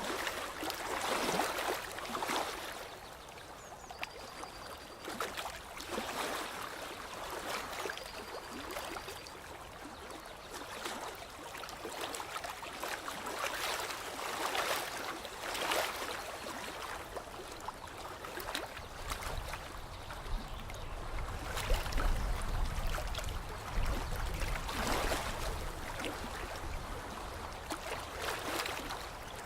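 Lake water lapping gently in irregular washes every few seconds. A faint short high note repeats three times in the first ten seconds, and a low rumble sets in about two thirds of the way through.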